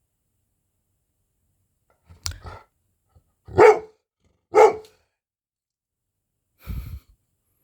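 Golden retriever barking twice, about a second apart. A sharp click comes before the barks and a soft thump after them.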